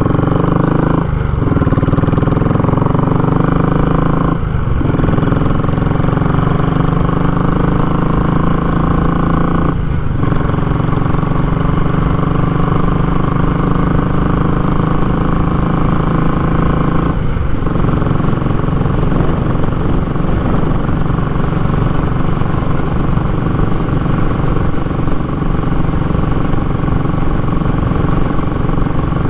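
Royal Enfield Classic 500's single-cylinder engine through a short, raw muffler, pulling under way. The exhaust note rises in pitch and breaks off briefly four times, as at gear changes, then holds a steady cruising note.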